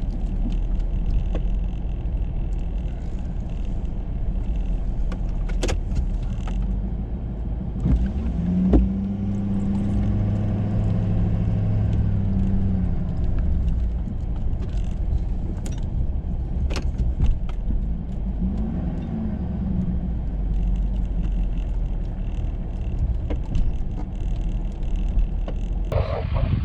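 Ford F-350 plow truck running steadily with a low rumble and a few sharp knocks. A pitched hum comes in about eight seconds in and fades out about five seconds later.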